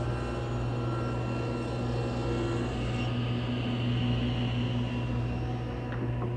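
Woodworking shop machinery running steadily, a motor hum with steady overtones; a higher hiss dies away about halfway through.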